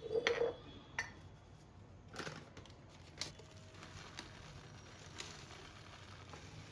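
Kitchen containers being handled: a handful of light knocks and clicks, the loudest right at the start and the rest spaced about a second apart.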